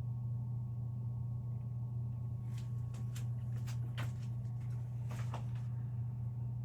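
A steady low hum, with a run of light clicks and taps in the middle, from about two and a half to nearly six seconds in.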